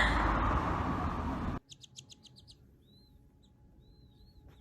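A noisy rushing haze fades out and stops abruptly about a second and a half in. A newborn chick's high peeping follows: a quick run of short peeps, then a few soft, separate chirps.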